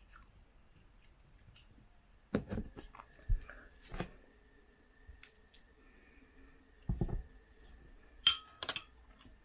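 Scattered knocks and clinks of dishes and cutlery being handled, about seven in all, the loudest near the end with a short ring.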